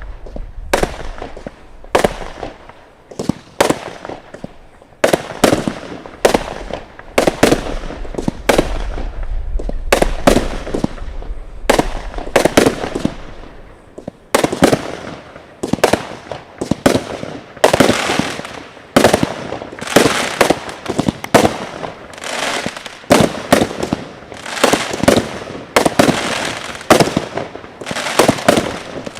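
Consumer fireworks going off nonstop in a show finale: sharp bangs several times a second, each trailing off in crackle and echo, with a low rumble under the first half.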